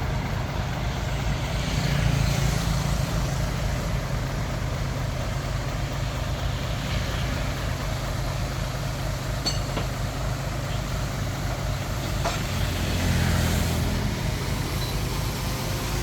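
Hitachi DX45M bulldozer's engine running steadily, rising in load briefly about two seconds in and again near the end.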